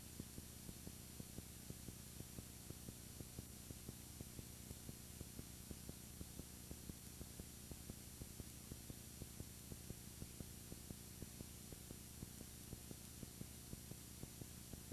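Near silence from a dead audio track: a faint steady electrical hum with soft, regular ticks about four times a second.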